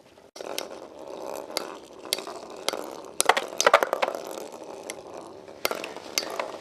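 Two metal Beyblade spinning tops, Lightning L-Drago 100HF and Burn Fireblaze 135MS, whirring in a stadium with repeated sharp clacks as they collide. The sound cuts in abruptly just after the start.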